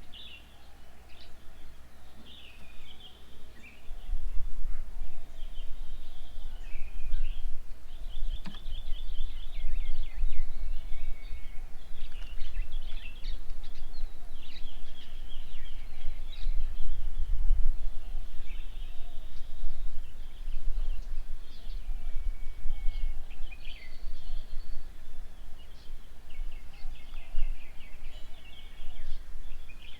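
Several birds calling and chirping, with quick trills and short calls coming thick and fast. From about four seconds in, a low fluctuating rumble sets in and is louder than the birds.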